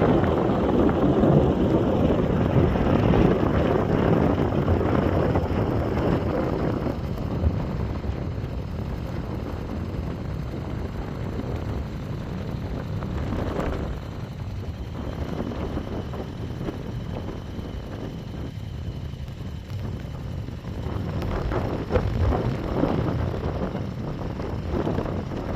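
Motorcycle on the move, engine noise mixed with wind buffeting the microphone; louder for the first several seconds, then easing to a lower rumble with brief swells.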